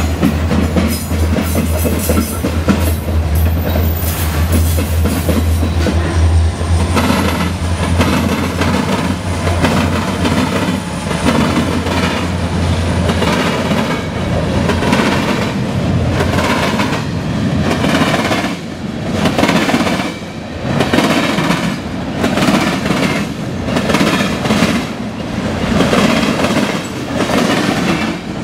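Freight cars rolling past close by, with a steady low hum in the first half that fades out about halfway through. In the second half their steel wheels clatter over the diamond crossing and rail joints in a regular clickety-clack, about one strike a second.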